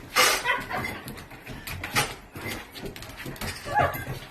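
A dog making a few short vocal sounds: the loudest comes right at the start, with shorter ones about two seconds in and near the end.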